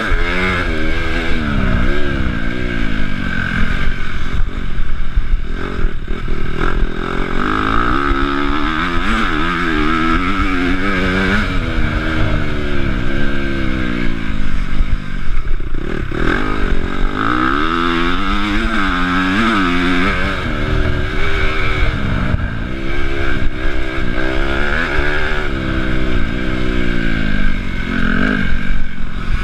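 Honda CRF250 motocross bike's single-cylinder four-stroke engine revving hard and dropping off again and again as the rider accelerates, shifts and backs off. Heard close up from the rider's chest.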